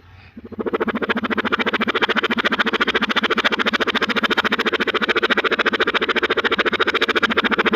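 Digitally processed audio clip played backwards through a 'Car Wash' voice effect: a continuous electronic sound chopped into a very fast, even fluttering pulse. It drops out briefly at the start and comes back about half a second in.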